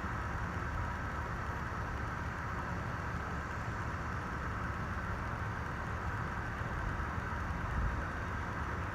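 Casablanca 19th century ceiling fan running on just after being switched off, a steady whir of blades and motor.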